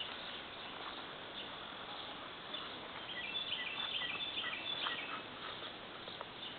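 Steady outdoor background hiss with a bird chirping a quick run of short high notes about three seconds in, lasting a couple of seconds.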